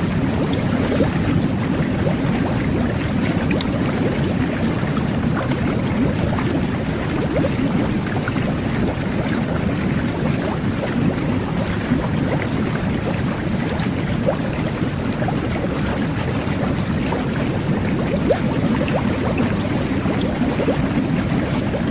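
Jet bath (whirlpool tub) running: a steady, dense bubbling and churning of water driven by the jets, with many small bubble pops on top.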